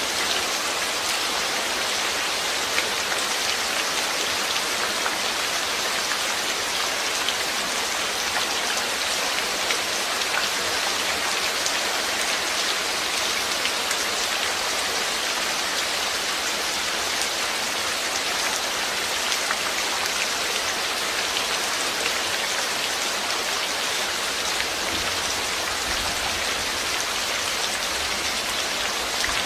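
Steady rain falling, an even hiss with many fine drops pattering on surfaces, unchanging throughout.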